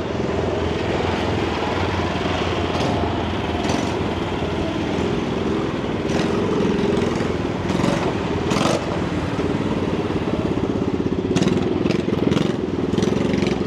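A vehicle engine running nearby with a steady, rough pulsing rumble, and a few sharp clicks and knocks over it.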